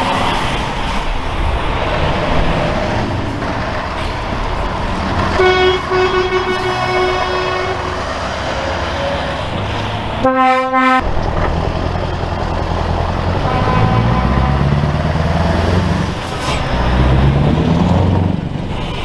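Trucks driving past with their diesel engines running, sounding their horns several times: a long horn blast, then a short, very loud blast about halfway through, then more toots.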